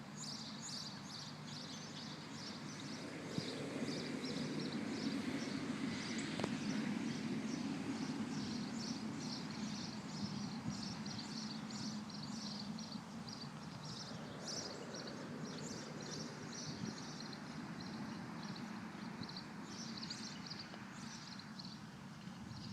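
Outdoor ambience. Rapid, repeated high-pitched chirping runs throughout, over a low rumble that swells a few seconds in and slowly eases off.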